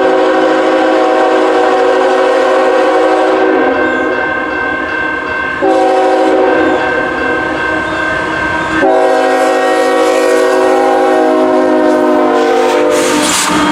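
Diesel freight locomotive's multi-chime air horn sounding a loud chord in long blasts. The blasts start sharply, sound again about five and a half and nine seconds in, and tail off near the end.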